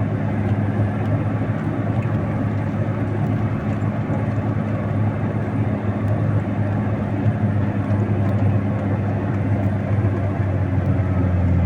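Engine of a snow-clearing machine running steadily under load as its raised blade cuts through a snow bank along the road.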